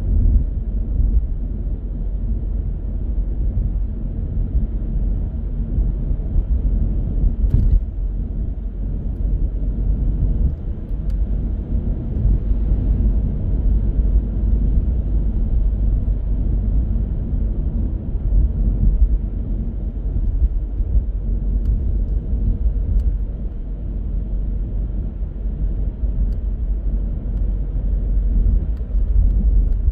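Car being driven: a steady low rumble of road and engine noise, with a few faint clicks.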